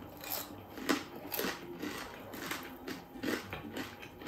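Close-up chewing of a mouthful of bagnet, crispy deep-fried pork belly, with crunchy bites about twice a second.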